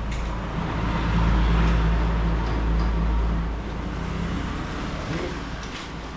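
Road traffic: a vehicle passing close by. Its low rumble swells about a second in and fades after about three and a half seconds.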